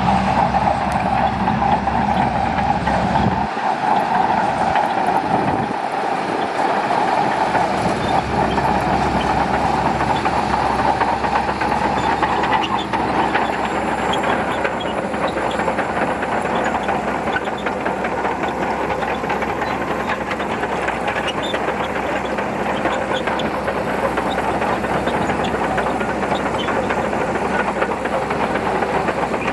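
Shantui DH17C2 crawler bulldozer working, its diesel engine running steadily under the dense clatter of its steel tracks. The low rumble dips briefly twice in the first seven seconds.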